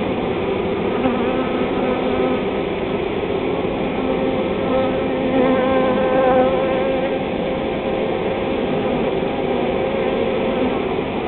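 A swarm of honey bees buzzing: a dense, steady hum of many wingbeats, with single bees' tones wavering in and out of it.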